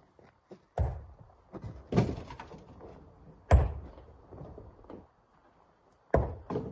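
Rocks thudding heavily into a dump truck's bed as they are loaded by hand: four heavy knocks at irregular intervals, each ringing briefly, with lighter clatter between.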